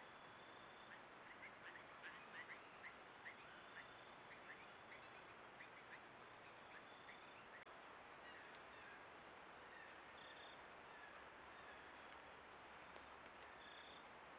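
Faint bird chirps, short notes repeated about two or three times a second, over the steady hiss of a trail camera's microphone. The chirping stops about halfway through, leaving the hiss and a few faint ticks.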